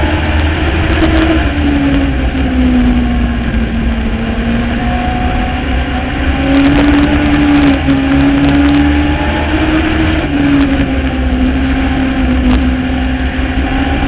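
Legends race car's Yamaha four-cylinder motorcycle engine running hard, its pitch dropping as the throttle eases and climbing again as it is opened back up, twice over, as on the turns and straights of an oval.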